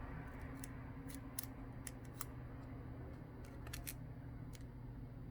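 Light, scattered clicks and taps of a small metal pry tool and phone parts being handled on the workbench, a dozen or so in a few seconds, over a steady low hum.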